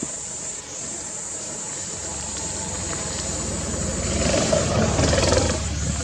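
A vehicle engine comes in about two seconds in and runs steadily, getting louder around four to five seconds in, then easing off.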